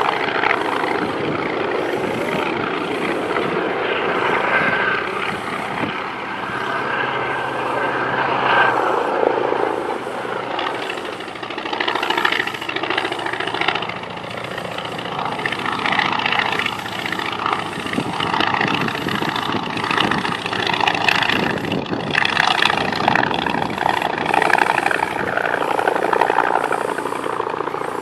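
Yak-18 single-engine propeller aircraft flying an aerobatic display, its engine and propeller sound swelling and fading as it manoeuvres and passes.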